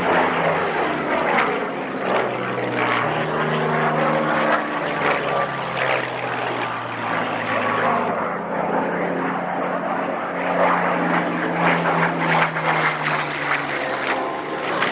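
Piston-engined propeller aircraft flying at an airshow. Its loud, continuous engine note rises in pitch about three seconds in and falls away slowly near the end.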